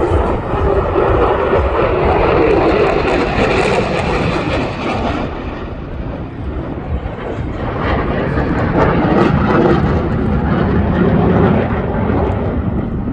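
Airplane flying past, a loud, continuous engine noise that fades about five seconds in and builds again a few seconds later.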